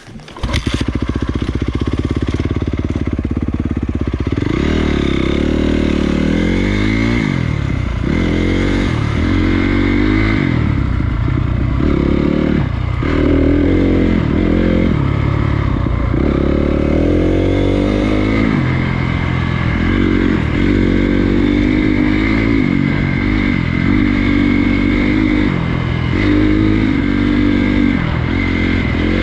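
Honda CRF250 dirt bike engine comes in suddenly less than a second in and runs loud, its revs rising and falling again and again as the bike is ridden along the trail.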